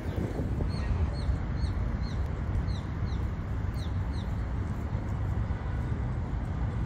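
Small birds chirping: a string of short, high, falling chirps over the first four seconds or so, against a steady low rumble of wind on the microphone.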